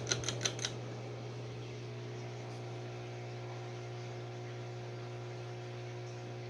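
1987 SMC Laguna 36-inch ceiling fan motor running with a steady hum and several steady higher tones. About four quick clicks in the first second.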